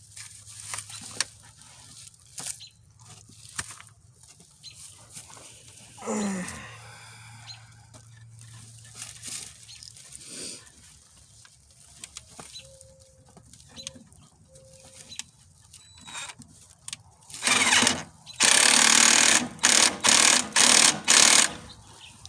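A baby goat bleating in the distance about six seconds in, over scattered light clinks of tools on metal. Near the end come several loud bursts of hissing noise.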